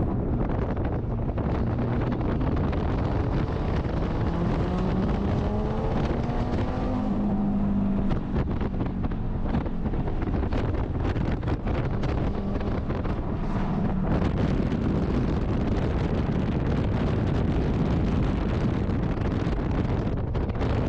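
Audi RS3 race car's engine running at speed, its pitch rising and falling as it accelerates and lifts, with wind buffeting the microphone.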